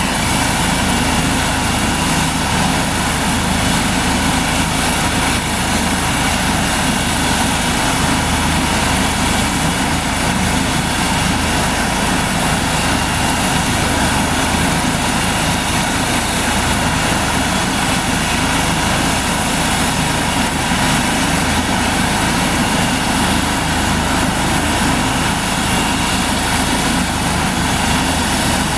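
Medical helicopter's engines and rotor running steadily and loudly, with no change in pitch or level.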